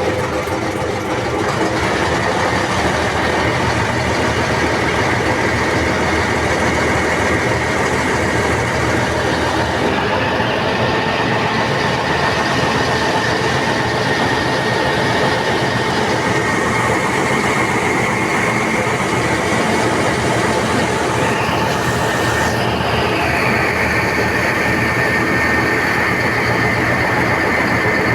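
Passenger train running steadily, a continuous rumble and rattle with a thin high whine held through it.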